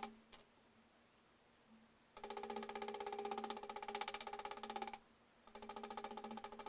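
Rapid hammer blows on a strip of sheet steel, ringing with each strike, as it is bent over a clamped flat bar into a 90-degree lip. The blows come in two fast runs, the first starting about two seconds in and the second just after a short pause past the middle.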